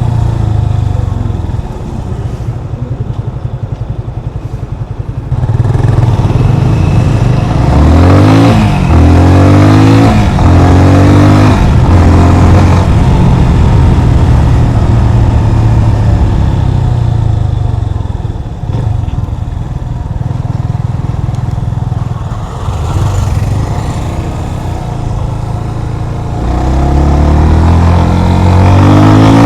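Yamaha FZ25's single-cylinder four-stroke engine heard from the rider's seat: low and uneven for the first few seconds, then accelerating with its pitch rising and dropping back several times through gear changes, settling into a steady run, easing off, and accelerating again near the end.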